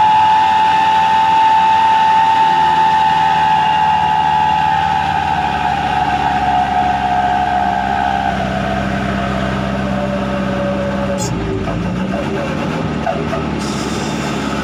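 Hino Dutro truck's 'srigala' wolf-howl exhaust sounding a loud steady tone over the diesel engine; the tone drops in pitch about eight seconds in and stops about three seconds later, leaving the engine running.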